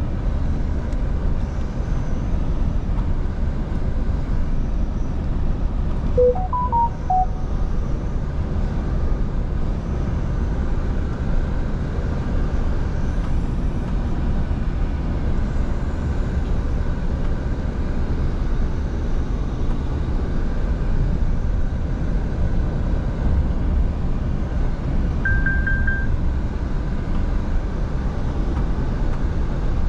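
Scania V8 truck cruising on the road: a steady low engine drone with road noise. A short run of electronic beep tones at a few different pitches sounds about six seconds in, and a brief high beep comes late on.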